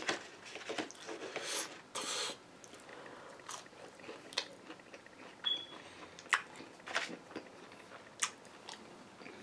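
Close-up chewing and biting of a mouthful of waffle fries, with scattered short clicks and soft crunches about once a second.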